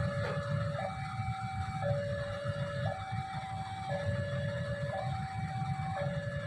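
Level-crossing warning alarm sounding a two-tone signal, a lower and a higher tone alternating about once a second, over a steady low rumble.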